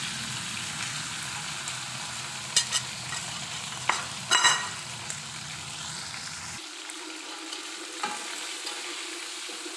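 Chillies, tomatoes, shallots and garlic sizzling as they fry in an aluminium wok, with a steady hiss. A few sharp loud clicks come about halfway through.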